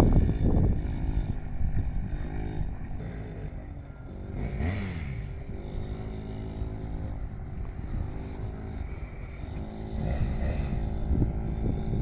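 Yamaha PW50's small single-cylinder two-stroke engine running as the minibike is ridden, its pitch rising and falling with the throttle; loudest at the start, dropping off by the middle, and louder again near the end.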